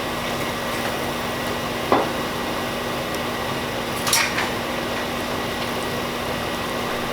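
A utensil knocking once and then clinking against a frying pan of vegetables, over the steady noise of a kitchen fan.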